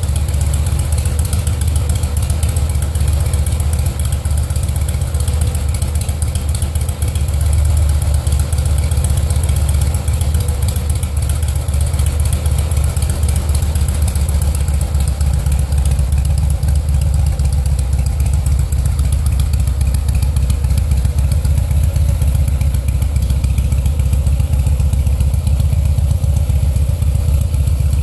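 2009 Harley-Davidson Rocker C's Twin Cam 96B V-twin idling steadily through a Screamin' Eagle 80495-07 muffler, with no revving.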